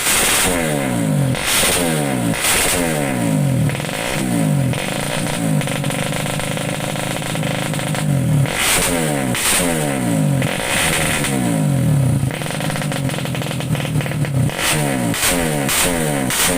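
Modified Yamaha Jupiter Z single-cylinder four-stroke underbone motorcycle revved repeatedly with throttle blips, the pitch rising and falling each time. Twice it is held at high revs for a few seconds, and near the end comes a run of quick short blips.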